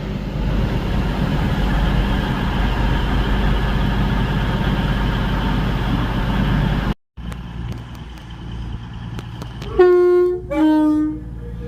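Train running through with a heavy, steady rumble that breaks off suddenly; then a train horn sounds two short notes, a higher one followed by a lower one.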